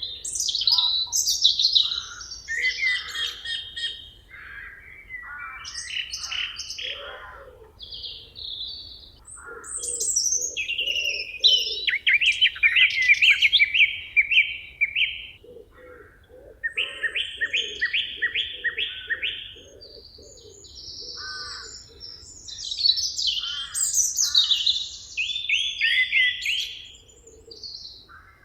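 Several songbirds singing over one another in a forest: chirps, fast trills and repeated whistled phrases. At times a lower, evenly pulsed call runs underneath.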